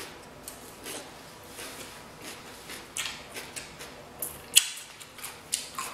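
Close-up chewing and mouth sounds: a mouthful of food chewed with irregular wet clicks and smacks, one sharper smack about four and a half seconds in.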